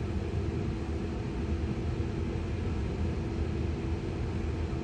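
Cabin noise inside a slowly moving Tesla: a steady low rumble of road and tyre noise, with a faint steady hum above it.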